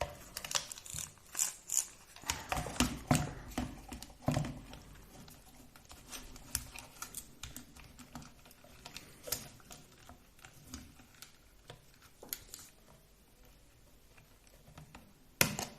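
Small plastic RC car parts and a hand tool being handled while the car is reassembled: irregular light clicks and taps, busiest in the first few seconds and sparser after.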